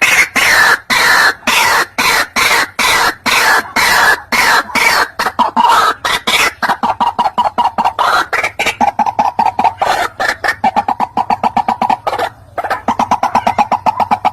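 White-breasted waterhens calling: a rapid, unbroken string of repeated notes, with a short break about twelve seconds in.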